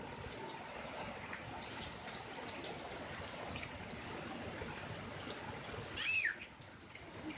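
Steady rain with water trickling and running. About six seconds in there is one brief, loud high-pitched squeal that bends in pitch.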